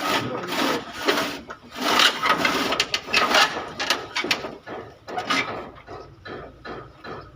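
Irregular rough scraping strokes, some short and some lasting about a second, loudest in the middle and thinning out toward the end.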